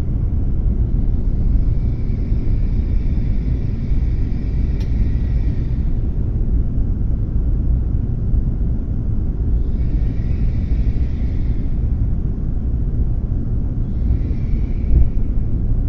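Running noise of a W7 series Shinkansen heard from inside the car: a steady low rumble, with a fainter hiss rising and fading three times.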